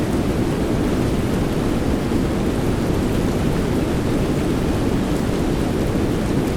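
Steady rain noise, an even, deep hush with no single drops or claps of thunder standing out.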